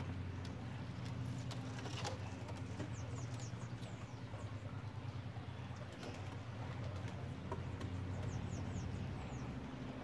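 Small birds chirping in short, high, falling notes, in a run about three seconds in and another near the end, over a steady low motor hum.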